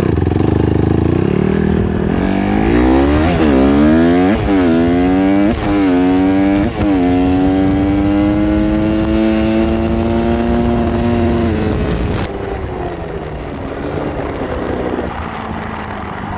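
Dirt bike engine accelerating hard through the gears, with wind rushing: the revs climb and drop sharply at four upshifts, then hold steady at speed. About twelve seconds in the throttle closes and the engine winds down.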